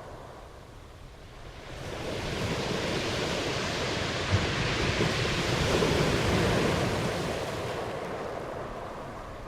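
Ocean waves: a wave washes in about a second and a half in, is loudest past the middle, and draws back toward the end, with a brief low thump partway through.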